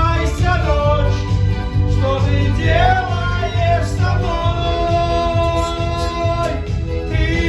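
A singer performing a pop song over band backing with a steady beat, holding one long note in the middle.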